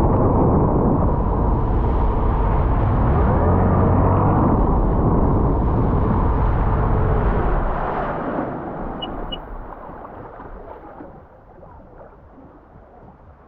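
Sea-Doo jet ski running under way, a loud steady rumble of engine and rushing water that dies away from about eight seconds in as it slows. Two short high beeps sound just after the noise drops.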